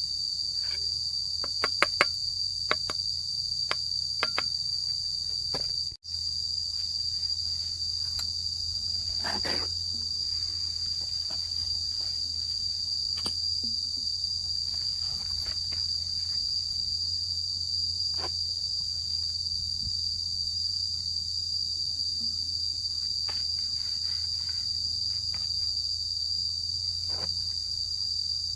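Steady high-pitched insect chorus, with scattered short sharp knocks, the loudest a few about two seconds in.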